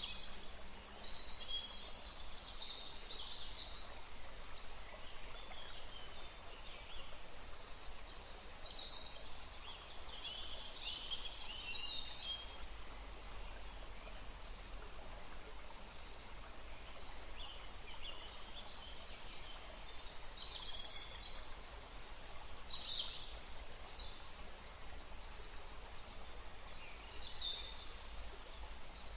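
Several small birds chirping and warbling in short, scattered phrases over a steady rushing background of wind and water.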